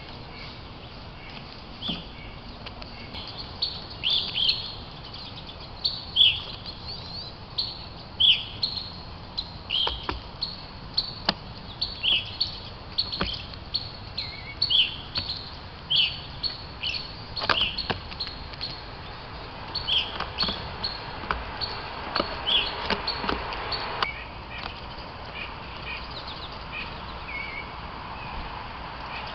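Small wild birds chirping, short high calls repeated about once or twice a second, with a few sharp ticks among them.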